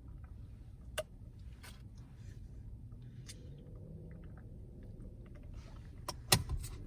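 Handling of a takeout meal inside a car: faint rustles and small clicks over a low steady rumble, with a sharp click about a second in and a louder double knock near the end.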